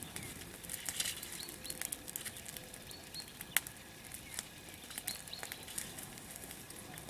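Garden bonfire crackling: a steady low hiss with scattered sharp snaps and pops, one louder snap about three and a half seconds in.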